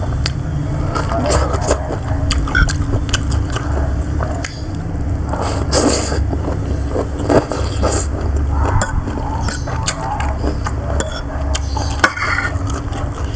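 Eating sounds: cutlery scraping and clicking against a food container between bites of siomay, with chewing. A steady low rumble runs underneath.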